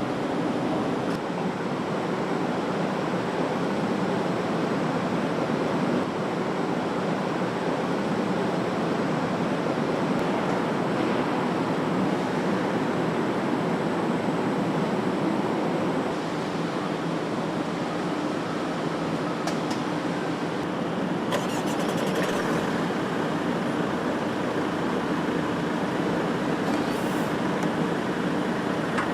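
Steady din of car-assembly-line machinery, with a faint constant hum under it. A few short, sharp high-pitched sounds come in the second half, the longest lasting about a second.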